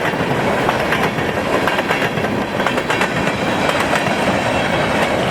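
Empty coal gondolas of a freight train rolling past close by: steady rail noise with frequent sharp clicks of steel wheels over rail joints.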